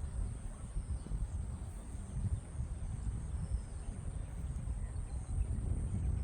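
Outdoor ambience: an uneven low rumble like wind buffeting the microphone, with a few faint bird chirps and a steady high-pitched whine.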